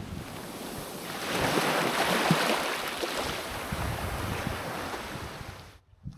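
Sea waves washing onto the shore, a rushing hiss that swells about a second in and slowly eases, with wind buffeting the microphone; it cuts off abruptly near the end.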